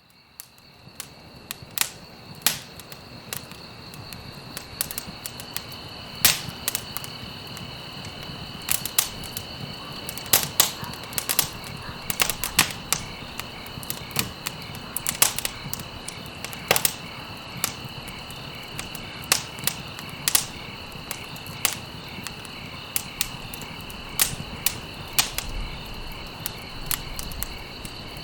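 Campfire crackling, with frequent sharp pops at irregular intervals over a steady high trill of crickets. It fades in from silence in the first second or two.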